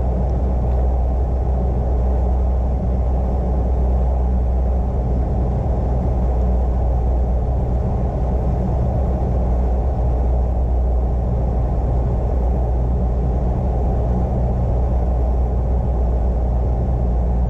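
Piper Cherokee's single piston engine and propeller running steadily, heard inside the cabin as a low, even drone.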